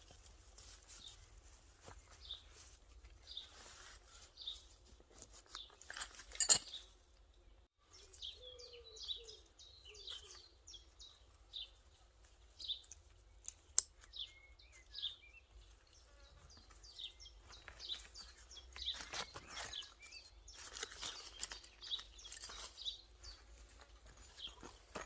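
Woodland birdsong: short high chirps repeating throughout. A sharp knock about six and a half seconds in is the loudest sound, with a smaller click near fourteen seconds and rustling near the end.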